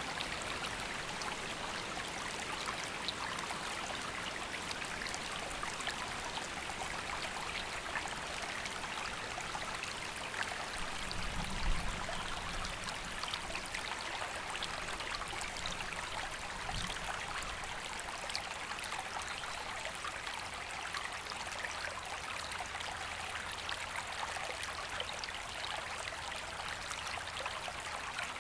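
A river flowing steadily over rocks, a constant rushing of water. About eleven seconds in there is a brief low rumble, with a smaller one about five seconds later.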